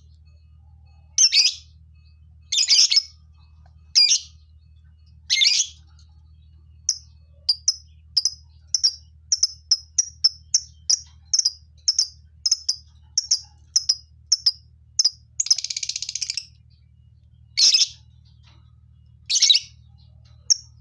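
Lovebirds calling: loud, shrill chirps about every second and a half, then a quick run of short chirps, one longer harsh chatter, and a few more shrill calls near the end.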